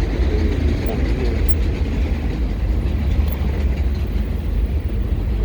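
Wind buffeting the microphone of a rider on an electric motorcycle at speed: a steady, loud, low rumble with a hiss above it, with no engine note.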